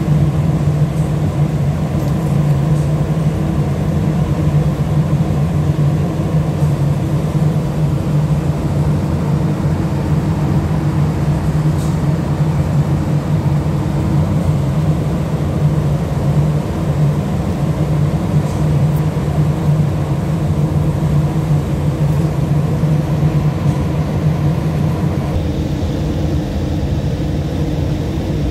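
Cargo ship's diesel engine running steadily during a propeller test, a loud, even low drone with a hum of steady tones above it. The upper tones shift slightly about three seconds before the end.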